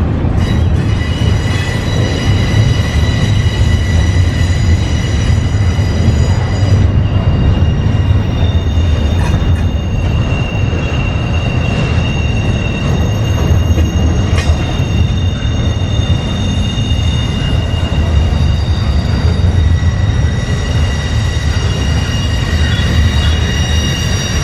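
Freight train cars rolling past close by: a steady low rumble of wheels on rail with several sustained high-pitched wheel squeals that fade out in the middle and return in the last few seconds.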